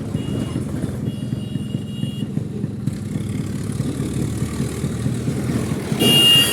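Yamaha RX100's two-stroke single-cylinder engine running steadily, a fast, even pulse. Near the end a louder sound with a high steady whine comes in over it.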